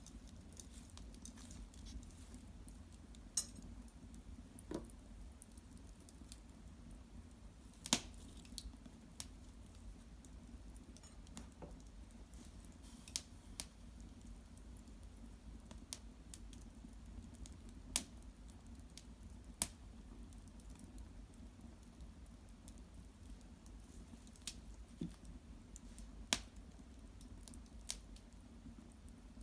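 Small wood fire crackling: sharp, irregular pops every second or few over a low, steady background.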